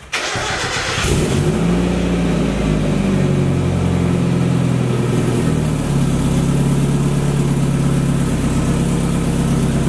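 1996 Mazda Miata's 1.8-litre four-cylinder is cranked over by the starter and catches about a second in, running loud through an exhaust with the catalytic converter removed. It holds a high idle, then settles to a lower steady idle about six seconds in.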